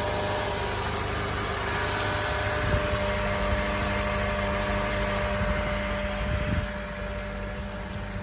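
2010 Honda Accord's engine idling steadily, a constant low rumble with a faint steady whine, dropping a little in level near the end.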